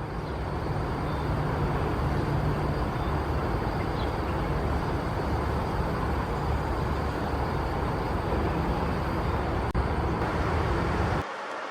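Steady low outdoor rumble, like traffic heard from a distance, with no birdsong standing out; it drops away abruptly near the end.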